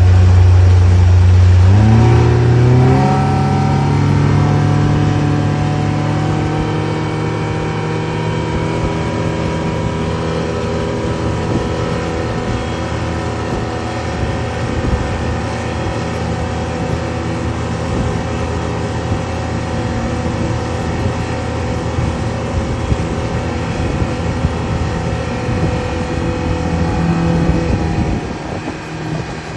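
An engine speeding up about two seconds in, its pitch climbing, then running steadily at a higher speed.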